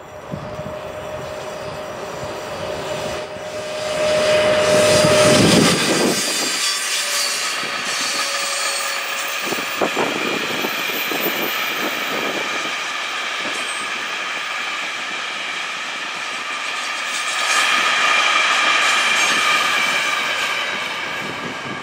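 Electric locomotive hauling a long freight train of covered wagons past: a steady whine that grows louder and drops in pitch as the locomotive goes by about five seconds in, then the rumble and clatter of wagon wheels on the rails, with a high wheel squeal near the end.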